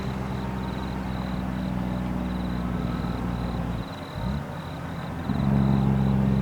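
Kenworth truck's diesel engine on the engine brake: a steady low, pulsing drone that breaks off briefly about four seconds in with a shift in pitch, then comes back louder.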